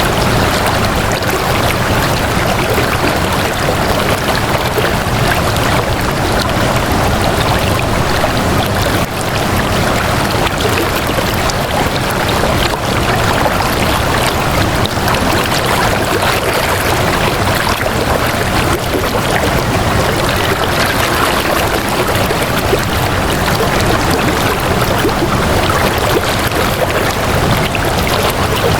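Flowing water running steadily, a continuous stream-like rush without pause.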